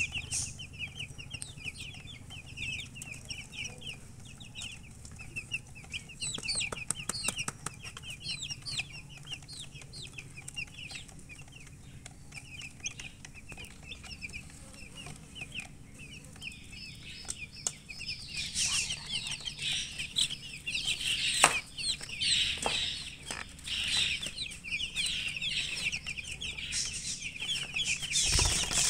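Newly hatched chicken chicks peeping loudly: a dense, continuous run of short, high, downward-sliding peeps that grows louder and busier about two-thirds of the way through. A few faint clicks and one sharp knock sound among the peeps.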